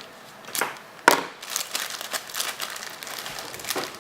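Package wrapping crinkling and tearing as it is cut open with scissors, with a sharp snap about a second in and a run of short crackles after it.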